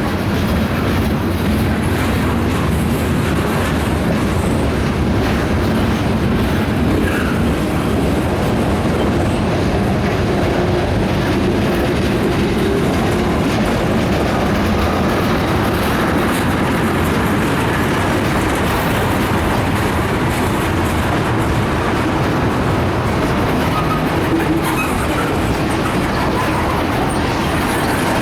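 Freight train cars rolling past at steady speed, steel wheels clicking over rail joints with a continuous rumble and rattle.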